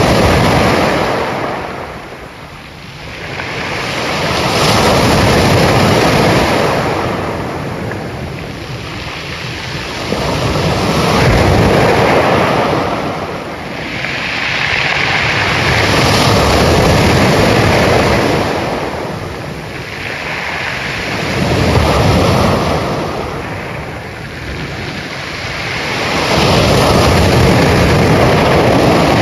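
Ocean waves breaking and washing on the shore, surging and ebbing in a slow rhythm about every five to six seconds.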